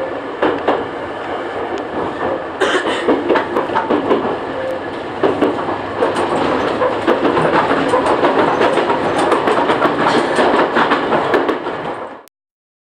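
Running noise heard inside a Chichibu Railway train car: a steady rumble of wheels on rails mixed with irregular knocks and rattles, growing louder a few seconds in. It cuts off suddenly near the end.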